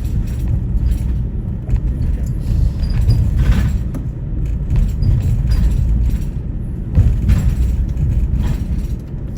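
Steady low rumble of a moving road vehicle, engine and road noise, with a few faint knocks.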